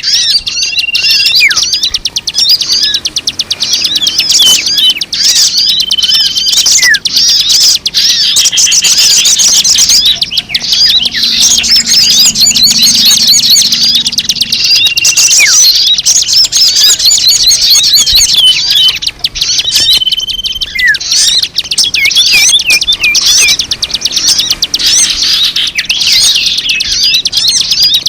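A bird-lure recording: a dense chorus of many small birds chirping and twittering rapidly and continuously, with a few short, steady whistled notes sounding now and then.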